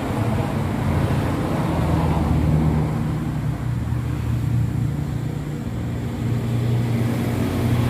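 An engine running steadily with a low hum that shifts up and down slightly in pitch every second or two.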